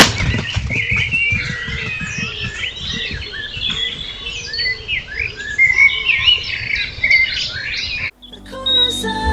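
Several wild birds singing and chirping together in a busy run of short warbles and tweets. About eight seconds in, the birdsong cuts off abruptly and music begins.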